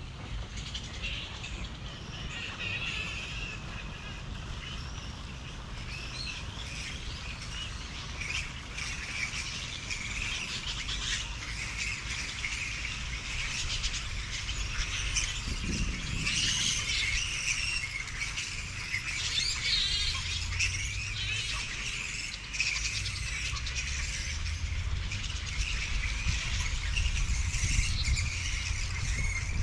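Birds chirping and calling throughout, over a steady low rumble.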